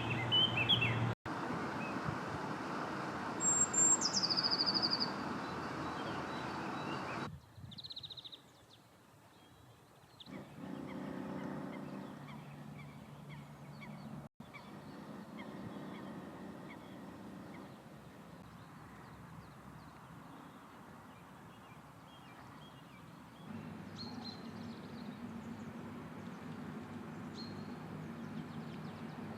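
Wild birds calling over steady outdoor background noise, in several short recordings cut together. A few seconds in, one high call drops in pitch in a step and ends in a short trill.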